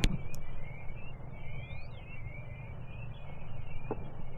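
Birds singing, high chirps and warbles with a rising whistle about halfway through, over a low steady rumble. There is a small click just after the start and a short knock near the end.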